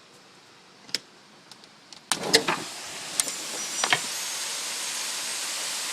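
Hailstones knocking sparsely, then about two seconds in a cluster of loud knocks and the steady hiss of a heavy hailstorm set in and keep going.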